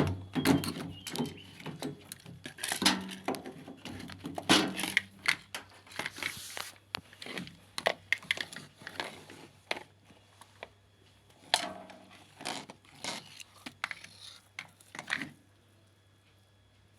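Hands taking apart a washing machine's drain pump housing: irregular clicks, knocks and rustles of plastic parts being handled, dying away about fifteen seconds in.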